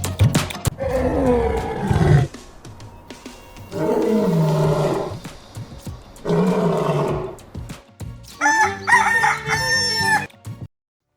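Three drawn-out animal calls, each falling in pitch, then a rooster crowing near the end.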